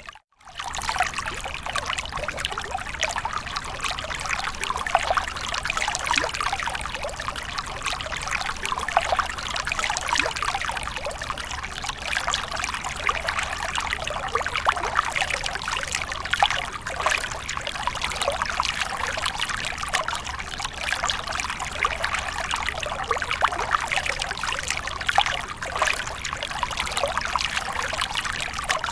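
Water splashing and trickling continuously, with fine crackling spatters throughout. A brief dropout just after the start, where the loop restarts.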